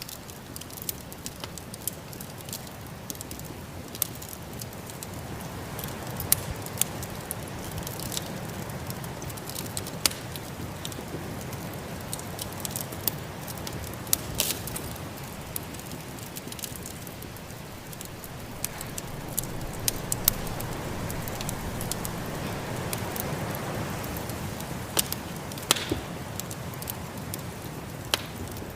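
Wood fire crackling, with irregular sharp pops, over the steady rush of a snowstorm wind that swells twice.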